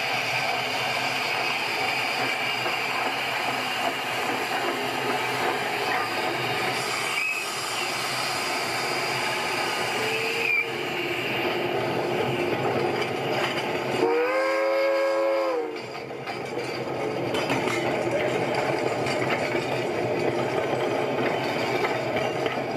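A train running, a steady noise of rail travel, with the train's horn sounding once for about a second and a half, about two-thirds of the way through.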